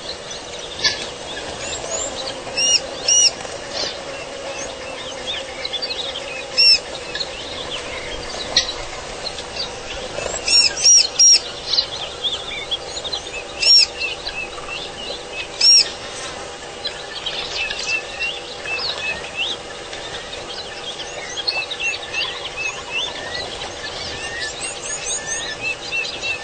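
Wild birds chirping and whistling over one another. Sharper, louder calls stand out every few seconds through the first two thirds, over a faint steady hum.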